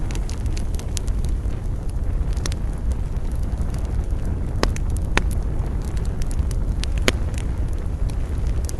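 Wood campfire burning with a steady low roar and irregular sharp crackles and pops, a few louder snaps a little past the middle.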